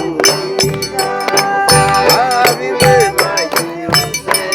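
Forró pé-de-serra music: an accordion melody over deep zabumba drum beats about once a second, with a ringing triangle on top.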